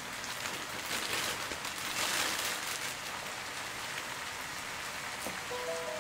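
Pork belly and kimchi sizzling in a hot frying pan, a steady hiss that swells louder about one to two seconds in.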